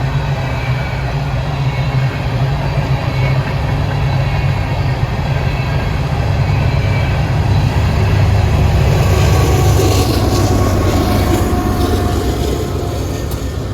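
Freight train passing: the diesel locomotives' engines give a steady low hum that grows louder. From about nine seconds in it is joined by the clatter of steel wheels on the rails.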